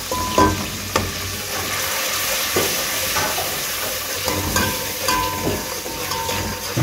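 Tadka of ghee, ginger-garlic and spices sizzling in an aluminium pot while a steel spoon stirs it, scraping and knocking against the pot several times.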